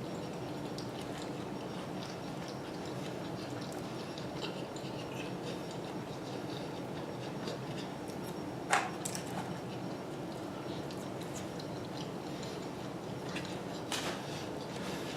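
Close-up eating sounds: chewing chicken wings, with faint small clicks and a sharp click about nine seconds in and another near the end, as food and dishes are handled, over a steady low background hum.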